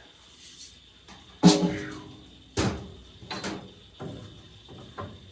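Five hard wooden knocks, each with a short resonant ring. The loudest comes about one and a half seconds in, and the rest follow at uneven gaps of about a second: lengths of lumber being struck while bench legs are assembled.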